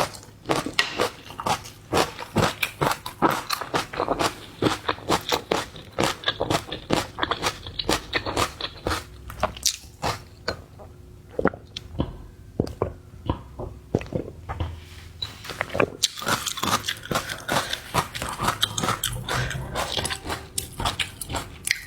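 Close-miked eating: biting, crunching and chewing of seafood in rapid, irregular crunches, easing off for a few seconds about halfway through, then crunching densely again.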